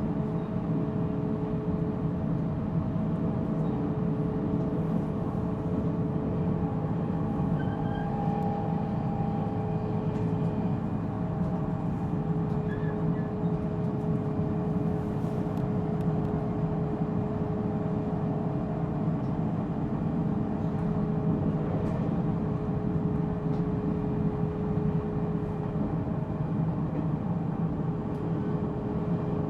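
Interior running sound of a JR Central 313 series 0 subseries electric multiple unit motor car: a steady rumble of wheels on rail, with constant tones held level throughout as the train runs along at an even pace.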